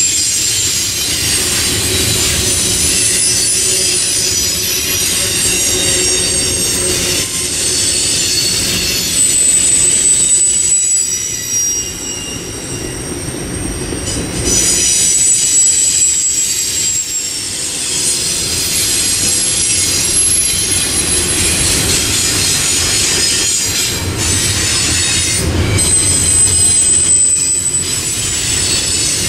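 Double-stack intermodal freight train rolling past, with the steady rumble of its cars and steel wheels squealing in thin, high tones that come and go.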